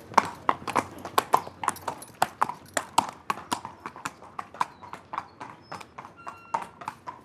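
Horse hooves clip-clopping: an uneven run of sharp strikes, about four or five a second.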